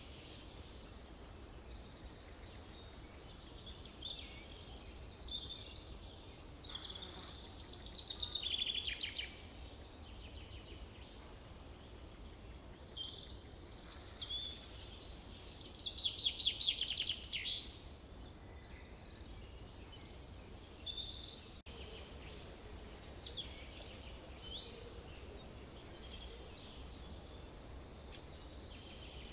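Several songbirds singing in a forest, with short chirps and whistles throughout. Two louder, rapid trills fall in pitch, about eight seconds in and again around sixteen seconds in. A steady low rumble runs underneath.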